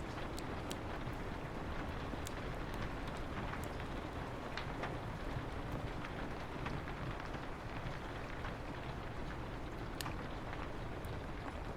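Steady rain falling on a window over a low rumble, mixed with a wood fire crackling in irregular sharp pops.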